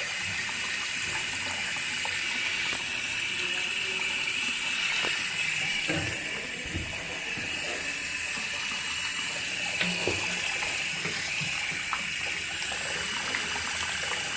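Water running steadily from a faucet, which is turned on to check that the fixture works.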